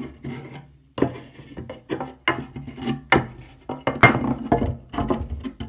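Plywood parts and metal tools being handled during assembly: a string of sharp knocks and rattling clatter, about half a dozen hard knocks from a second in, with no power tool running.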